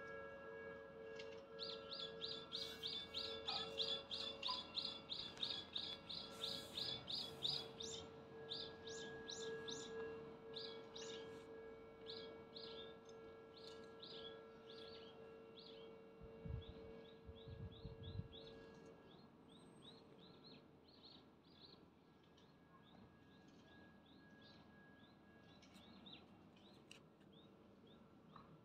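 A bird calling: a fast run of high chirps, about five a second, then slower repeated chirps that grow fainter. A faint steady hum underneath stops about two-thirds of the way through.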